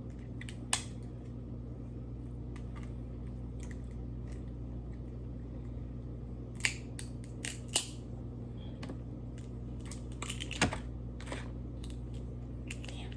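Crab shell being cracked and picked apart by hand: a few scattered sharp cracks and clicks, with a cluster around the middle and another near the end.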